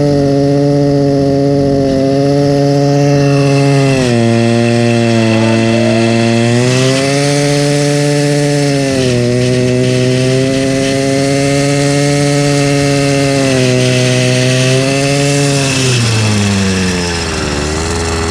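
Motorized bicycle's small engine running under the throttle, its pitch stepping up and down every few seconds, then falling away to a lower speed near the end.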